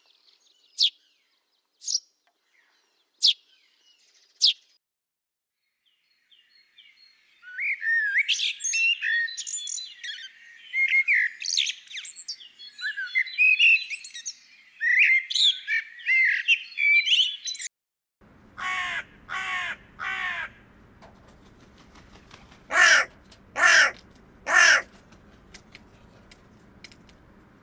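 A sequence of city bird calls. First come a few short, thin, high calls about a second apart, then a long stretch of busy, high chirping and twittering. It ends with a hooded crow giving harsh caws: three, then after a short pause three louder ones.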